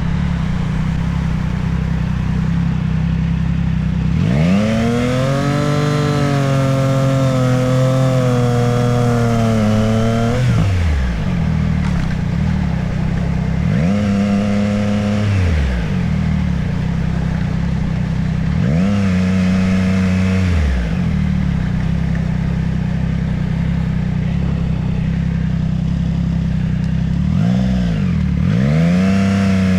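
Motorcycle engine running during a ride, revving up several times: a long pull about four seconds in, shorter ones around fourteen and nineteen seconds in, and another near the end, each dropping back off afterwards.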